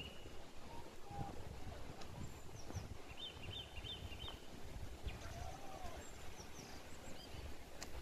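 Several forest birds calling over a steady low rumble. There is a short run of four quick chirps about three seconds in, scattered high thin chirps, and a couple of lower whistled notes.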